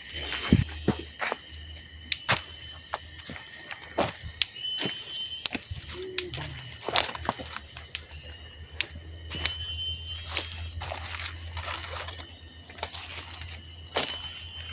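Footsteps crunching through dry leaves and twigs, heard as irregular snaps and crackles, over a steady high-pitched insect drone.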